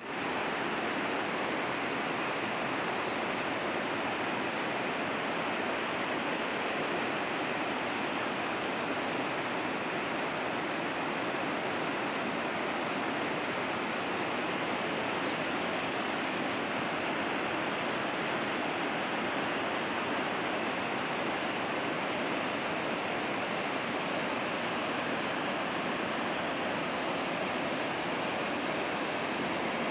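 River water rushing steadily, an even hiss-like noise with no breaks.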